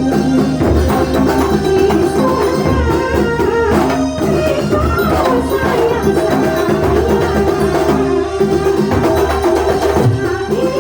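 Kuntulan music played live: drums and percussion beat steadily under held melodic notes.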